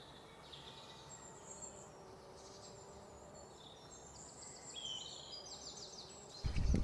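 Small birds chirping and trilling faintly over a quiet background, a string of short high calls. A much louder sound cuts in near the end.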